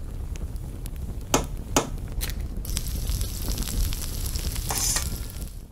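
A few sharp clicks, then from about two and a half seconds in, the loud hiss of food sizzling in a hot frying pan.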